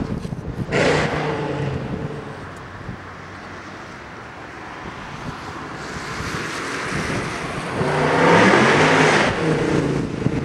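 Weistec Stage III supercharged Mercedes C63 AMG's V8 revving hard. It blips sharply about a second in, then builds as the car accelerates toward and past on a wet road, loudest about eight seconds in, and its pitch drops as it goes by.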